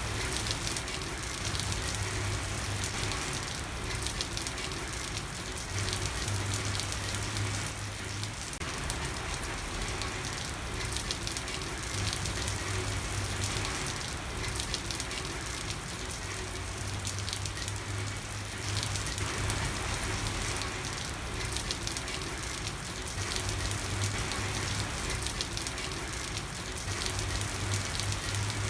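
Steady rain falling on a street, a constant hiss with many small drop ticks, and a low hum that fades in and out every few seconds.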